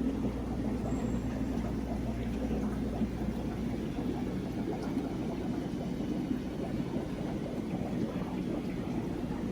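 Steady rush of running water with a low pump hum, the sound of aquarium filtration.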